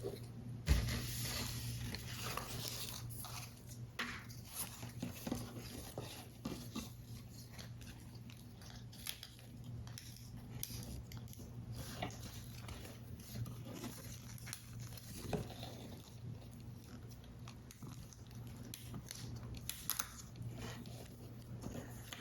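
Paper model parts being handled and worked by hand, close up: scattered paper rustles, small clicks and taps, with a sharper knock about a second in, over a faint steady low hum.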